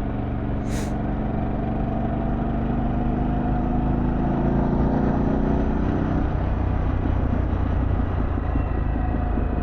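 Harley-Davidson Pan America Special's Revolution Max V-twin under way on the road, its note rising steadily in pitch as it pulls, then dropping away about six seconds in, over a steady low rumble of wind and road noise. A single sharp click about a second in.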